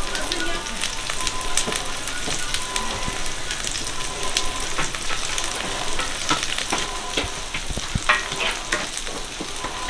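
Egg-battered jeon sizzling in oil on a flat griddle: a steady frying hiss, with frequent short taps and scrapes as a metal spoon and chopsticks turn the pieces.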